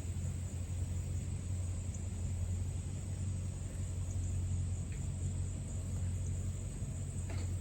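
Steady low background hum with a faint high hiss, broken only by a few faint ticks.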